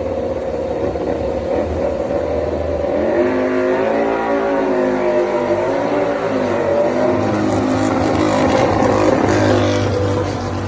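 Racing motorcycle engine running, its pitch rising and falling a few times from about three seconds in, over a steady engine hum.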